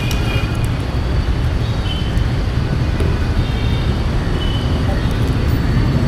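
Bajaj Dominar 400's single-cylinder engine running while riding through city traffic, a loud, steady low rumble. Several short high-pitched tones from the surrounding traffic are scattered over it.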